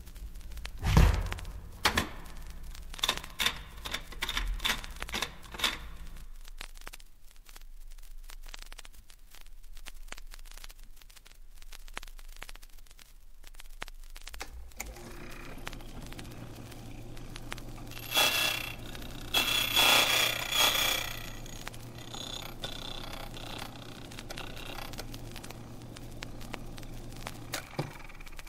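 Clicks and metal knocks of an office safe being worked, ending in a few heavier knocks. After several seconds' quiet, a key cutting machine's motor starts humming, and about four seconds later the cutter grinds a key blank in a few short, loud bursts; the motor stops near the end.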